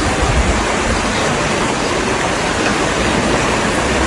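Steady, loud rush of water, an even noise with no breaks.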